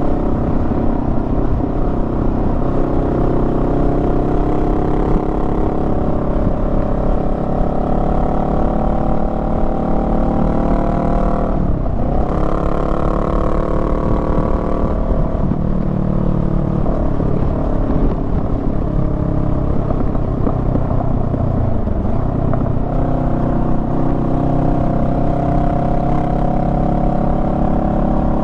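Honda Rebel 500's parallel-twin engine running under way. The note climbs slowly, breaks and dips briefly about twelve seconds in, then dips again briefly about twenty-two seconds in.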